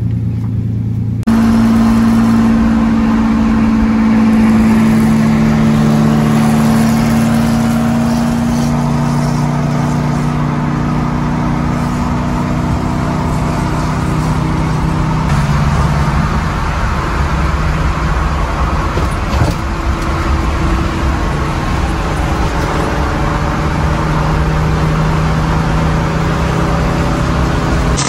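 Car engine running loudly with steady, held notes, stepping up in loudness about a second in and settling to a lower steady note about halfway through.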